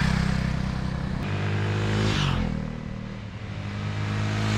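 Motorbike engine running while being ridden, its pitch dropping about a second in and rising again near the end as the throttle and gears change, with a rushing hiss over it.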